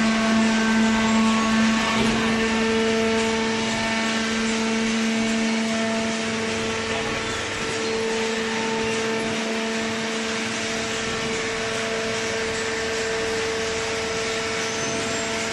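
Horizontal hydraulic baler running: a steady machine hum with a constant drone over mechanical noise, the higher tone fading in about two seconds in.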